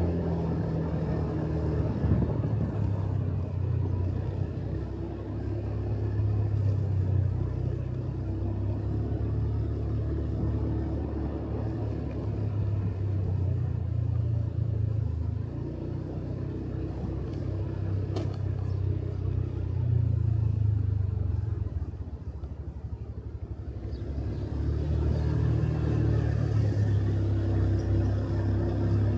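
Motorcycle engine running while riding, its note shifting with the throttle, over a rush of wind and road noise. About 22 seconds in it drops off briefly, as when easing off the throttle, and picks up again a few seconds later.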